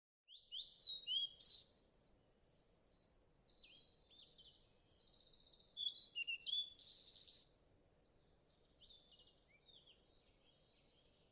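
Small songbird singing: rapid runs of high chirped notes, loudest about a second in and again around six seconds, tailing off toward the end over faint outdoor background hiss.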